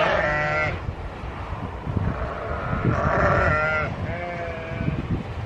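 Farm animals bleating, three long calls: the first is already under way at the start and ends within the first second, the next comes about three seconds in and a last one just after it.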